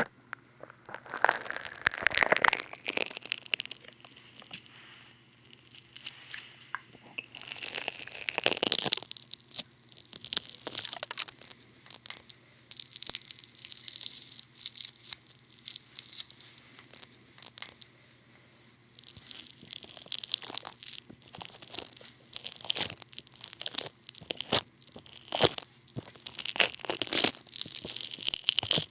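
Funny Foam being squished and worked right against the ears of a binaural dummy-head microphone: close, crinkly crackling in irregular bursts, with brief lulls.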